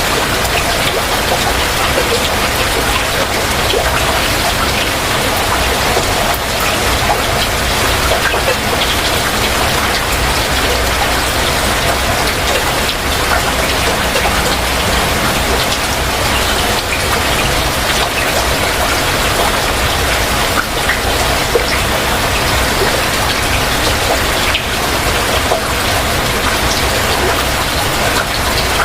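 Heavy rain falling steadily: a dense, even hiss of countless drops, with many small individual drop hits on surfaces.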